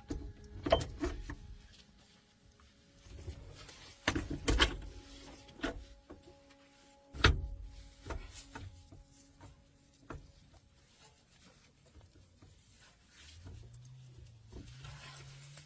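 Scattered sharp knocks and clatters of tools and parts being handled during repair work, the loudest about seven seconds in, over faint background music.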